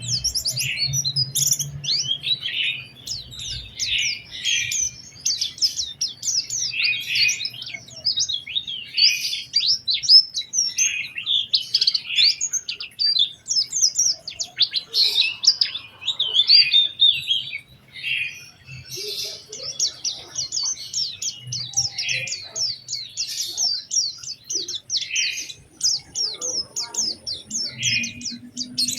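White-eye (pleci) singing vigorously: a fast, unbroken stream of high-pitched chirps, twitters and trills.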